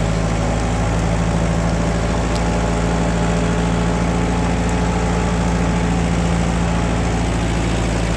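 1948 Ford 8N tractor's four-cylinder flathead engine running steadily at an even speed.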